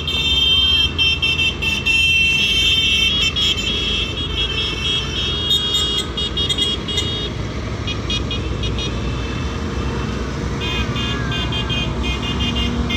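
Vehicle horns tooting in repeated short blasts over the low rumble of running tractor engines. The horns go quiet for a few seconds in the middle, then resume near the end.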